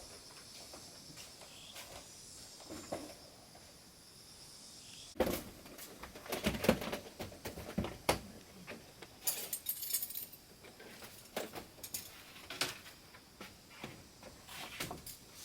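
Irregular knocks, clacks and rattles of objects being handled, starting about five seconds in and coming in clusters. Under them, a steady high hiss.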